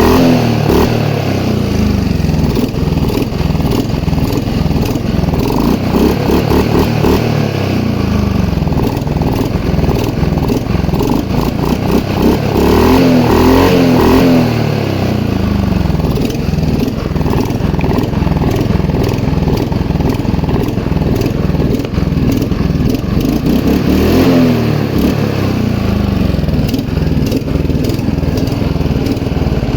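The Einhell Royal 46s lawn mower's small petrol engine running continuously, its pitch rising and falling back twice, about halfway through and again near the end.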